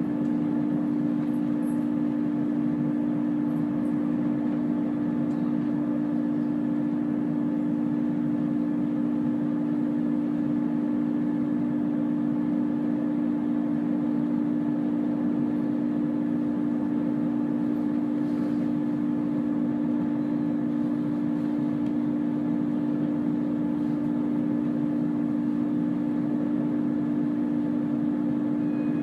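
Chiltern Railways diesel multiple unit running along the line, heard from inside the carriage: a steady drone of two strong hum tones over an even rumble, unchanging throughout.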